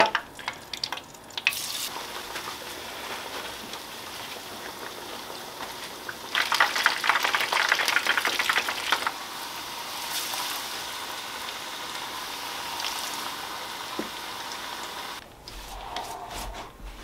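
Breaded walleye pieces frying in a pan: a steady sizzle, with a louder crackling stretch from about six to nine seconds in. A few light clicks from the coating bowls come first, and the sizzle drops away near the end.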